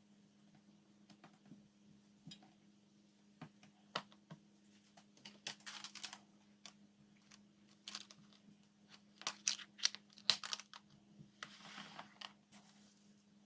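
Food and lunchbox containers being handled: scattered light clicks and taps with a few short rustles, busiest around the middle.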